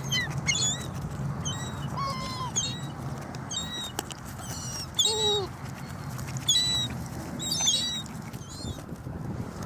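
Seagulls calling over a feeding spot: repeated short, high squeals and cries, with a couple of lower falling cries, over a steady low rumble.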